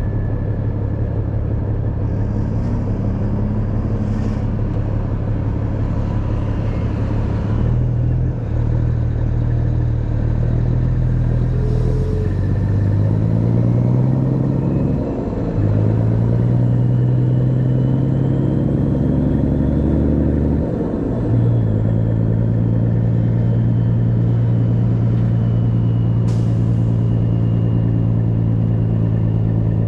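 Heavy rotator tow truck's diesel engine running under way, its pitch climbing and then dropping at gear changes about 8, 15 and 21 seconds in.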